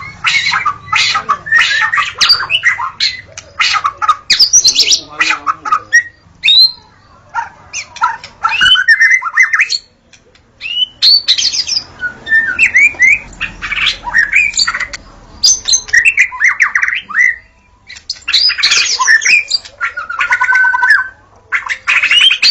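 White-rumped shama (murai batu) singing a varied song of fast runs of short notes and sweeping whistles, in bursts separated by brief pauses.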